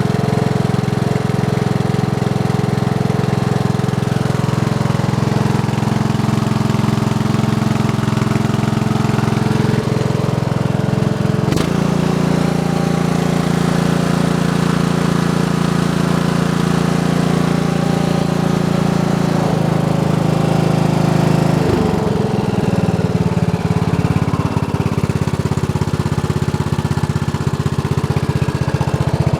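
Briggs and Stratton 14 HP single-cylinder overhead-valve vertical-shaft engine running steadily. Its note changes abruptly about a third of the way in, and again a little past two-thirds.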